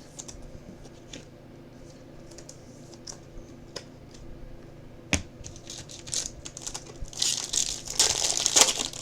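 Trading-card pack wrapper crinkling and being torn open, loudest over the last two seconds, with a sharp click about five seconds in.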